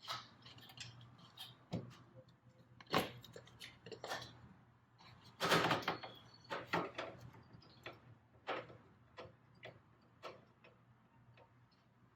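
Scattered light clicks and knocks of hands and small metal parts being worked around a car engine during turbo reassembly. The loudest cluster comes a little past the middle, with single sharper clicks before and after it.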